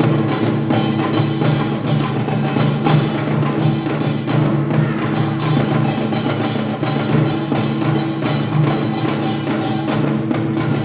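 Korean traditional percussion ensemble playing a dense, fast rhythm of drum and gong strokes over a steady held low tone.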